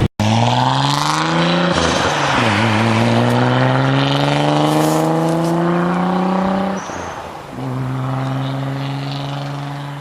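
Nissan 300ZX's V6 engine accelerating hard: the revs climb, drop at an upshift about two seconds in, then climb again through a long pull in the next gear. Near seven seconds the note falls away, and a steadier, lower engine note follows.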